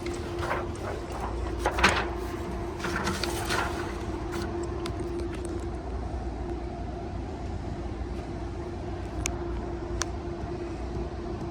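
Steady mechanical hum and rumble with one held tone, with handling and rustling noise in the first few seconds and two sharp clicks near the end.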